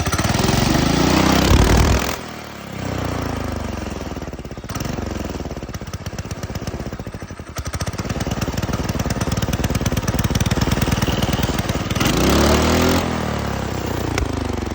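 Go-kart engine with a new 30mm carburetor, running on a stand and revved hard with the throttle: it climbs to full revs near the start, drops back, blips twice, and revs up again near the end. Very loud.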